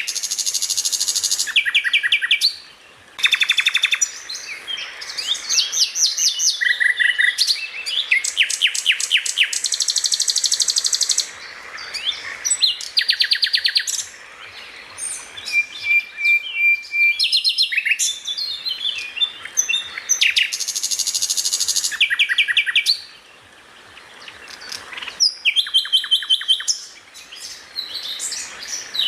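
A songbird singing a loud, varied song of rapid repeated chirps and fast trills, delivered in dense phrases with brief pauses about three seconds in and near the end.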